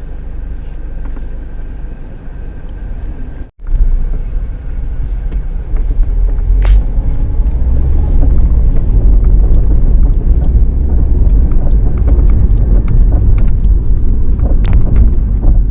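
Mazda 3 driving over rough road: a loud, steady low rumble, with scattered light knocks. The knock is the front suspension noise located underneath the car and felt through the floor, later traced to worn tie rod ends, rack ends and a stabilizer link. The sound cuts out briefly about three and a half seconds in and comes back louder.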